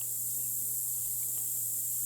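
Steady drone of insects around an open beehive: an even high-pitched hiss with a low, steady hum beneath it.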